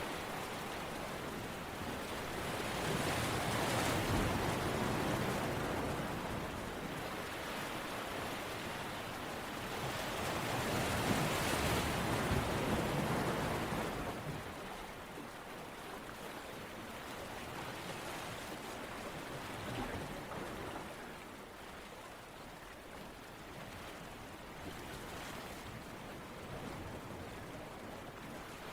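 Ocean surf washing in and drawing back in slow swells: two bigger surges in the first half, gentler ones after.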